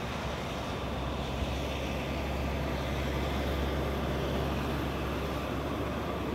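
Steady low engine hum of a large road vehicle, with street traffic noise.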